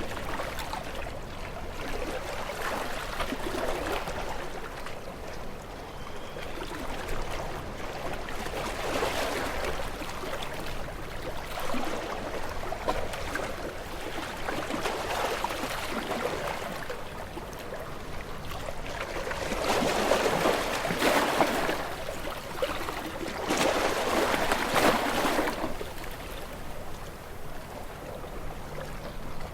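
Small waves washing onto the shore, a splashing wash that swells and ebbs every few seconds, with two louder waves about two-thirds of the way through.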